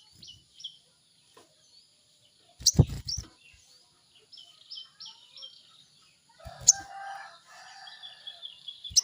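Songbird chirping in short high notes, then a fast, even trill in the last second or so, with a rooster crowing a little past the middle. Three sharp knocks with deep thuds cut in, the loudest sounds, about three seconds in, past the middle, and at the very end.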